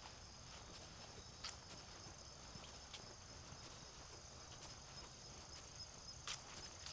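Faint, steady, high-pitched trilling of insects, with a few soft footsteps on the trail.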